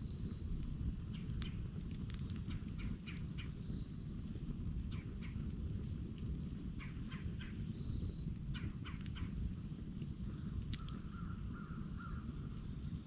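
Campfire burning, with irregular sharp crackles and pops over a steady low rumble. Near the end comes a short run of pulsed notes, about a second and a half long.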